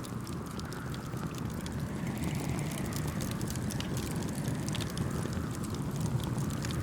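Campfire crackling with scattered small pops over a steady low rumble of wind and gently washing waves.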